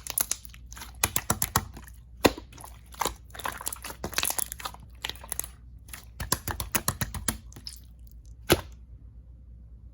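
Clear slime being squeezed and pressed by hand, giving irregular clusters of sharp clicks and pops, with one last loud pop near the end.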